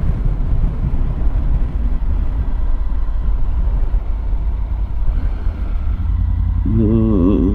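Steady low rumble of a Triumph Tiger 900's three-cylinder engine mixed with wind and road noise, heard from the bike. A voice starts near the end.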